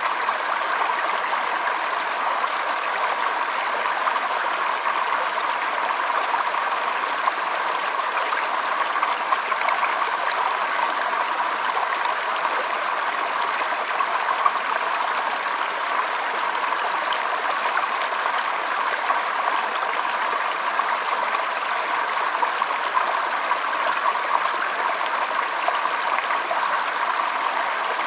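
Flowing water, like a small stream running steadily, with a continuous rushing babble and small flickering splashes throughout.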